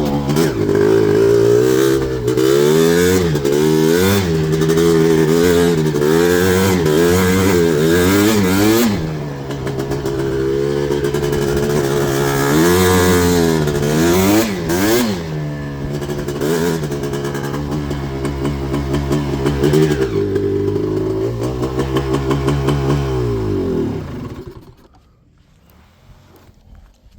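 Yamaha Blaster ATV's 240cc big-bore single-cylinder two-stroke engine with FMF exhaust, ridden hard: the revs climb and drop again and again under repeated throttle, then hold steadier before winding down and stopping near the end.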